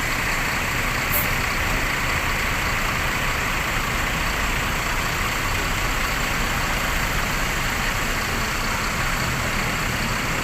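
Bus engine idling steadily, a constant low rumble with a hiss over it.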